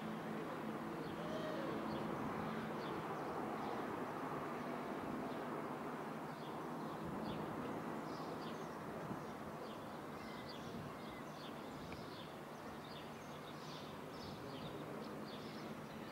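Small birds chirping, with many short high calls that grow more frequent about halfway through, over a steady low drone.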